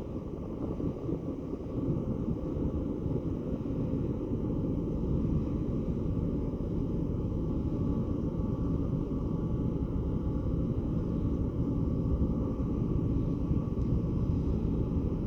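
A large car ferry's engines running as it comes into harbour: a steady low rumble with a faint even hum.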